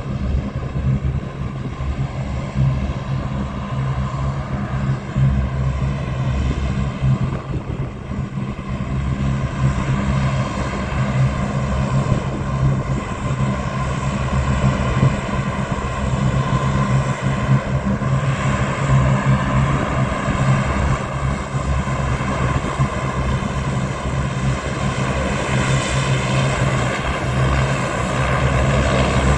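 Aircraft engines running steadily, a continuous hum with several held tones, slowly growing louder.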